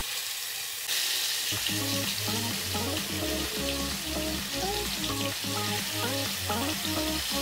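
Marinated paneer cubes sizzling in hot oil in a frying pan as they are laid in one at a time. The sizzle starts about a second in, with background music playing under it.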